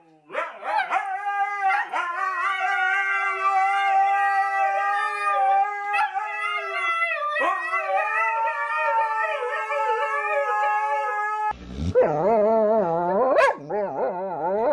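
Dog howling in long, steady drawn-out notes, with a brief dip in pitch about halfway through. Near the end a lower, wavering howl takes over.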